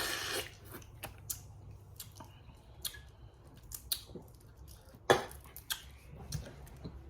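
Scattered small cracks and clicks of boiled crawfish shells being snapped and picked apart by hand, with the sharpest crack about five seconds in.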